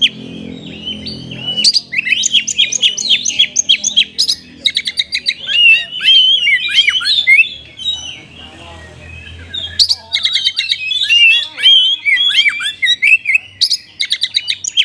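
Oriental magpie-robin singing a loud, rapid song of chirps, trills and whistled glides, its phrases delivered in the 'kapas tembak' style of another bird. It pauses briefly at the start and again about halfway through.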